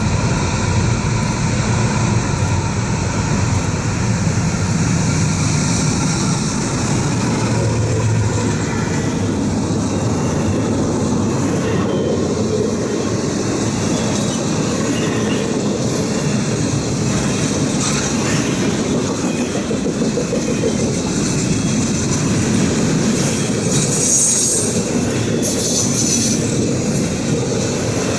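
Norfolk Southern freight train's cars rolling past, a steady rumble of steel wheels on rail, with a brief high-pitched wheel squeal near the end.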